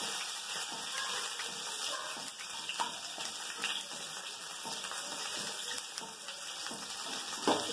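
Chopped onion sizzling steadily in hot oil in a non-stick kadai, with a few light scrapes and taps of a wooden spatula as it is stirred.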